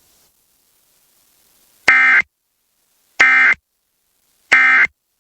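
Emergency Alert System end-of-message data bursts over the radio: three short, harsh buzzing screeches about 1.3 seconds apart, starting about two seconds in after a silent pause. They signal the end of the alert message.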